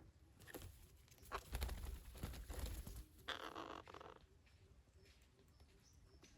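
Knocks and rustling with a low rumble, then a series of faint, quick, high squeaks from a parrot.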